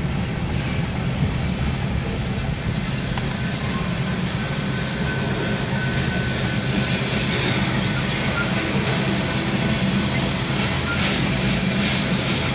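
Freight train of covered hopper cars rolling steadily past a grade crossing: a continuous rumble of steel wheels on the rails, with a faint high squeal for a couple of seconds near the middle.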